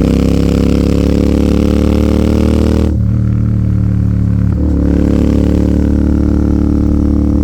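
Royal Enfield Continental GT 650's parallel-twin engine running under throttle through an aftermarket AEW 103 exhaust. The note breaks and shifts about three seconds in and again at about four and a half seconds, as with gear changes, then runs steady.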